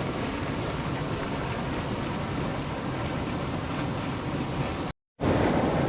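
Floodwater rushing and swirling out of a pipe mouth over rocks, a steady noisy rush. It cuts out for a moment near the end, then comes back.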